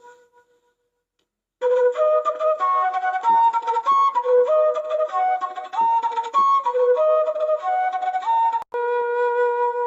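Background music: a flute playing a quick stepping melody after a short silence, ending on a long held note.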